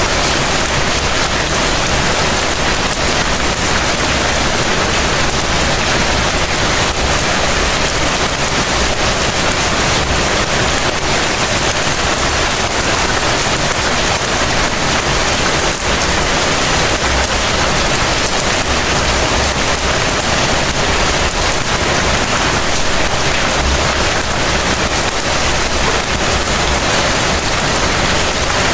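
Heavy rain falling steadily, a dense even hiss of drops on surfaces with a faint low rumble underneath.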